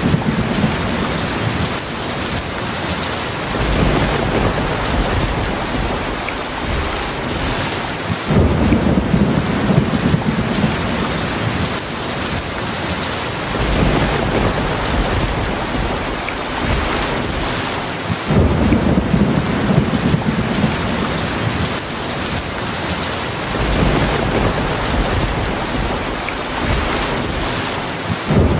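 Heavy rain falling steadily, with low rolls of thunder swelling in and fading about every five seconds.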